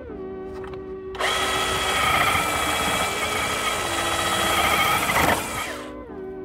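Bosch GBH18V-26 cordless rotary hammer spinning a Forstner bit into a weathered wooden beam: it starts abruptly about a second in, runs with a steady whine while cutting, then spins down and fades near the end. Background music plays underneath.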